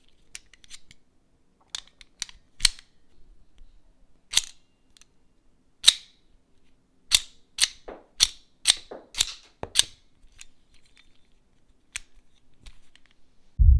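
Sharp clicks and snaps from a 1:3 scale die-cast miniature Sig Sauer MCX Rattler model being handled, with a quicker run of them, about two a second, in the middle. A low thud comes right at the end.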